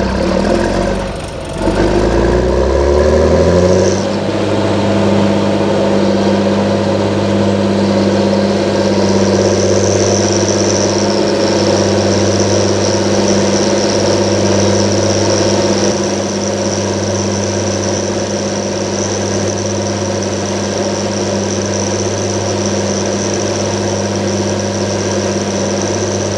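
John Deere 7920 tractor's 8.1-litre diesel engine running, its revs rising over the first few seconds and then holding steady at high speed. A thin high whistle joins in about nine seconds in.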